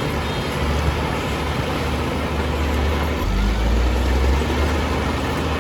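Diesel engine of heavy earthmoving equipment running steadily. Its low rumble deepens and grows a little louder about three seconds in.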